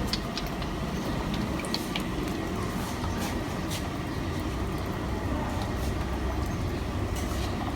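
Steady low background rumble with faint, scattered high chirps from small parrots in an aviary.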